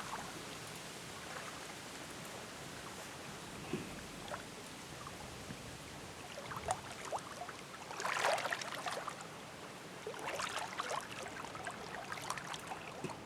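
Steady background hiss with a few soft, scattered clicks and rustles, clustered about eight and ten seconds in.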